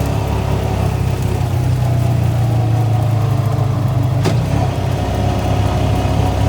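ATV engine running at a steady pitch, with one brief click about four seconds in.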